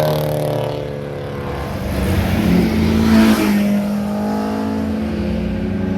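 Cars driving past one after another on a twisty mountain road, engines pulling through the bends. One engine's pitch drops as it goes by just after the start, and a second car passes loudest about three seconds in.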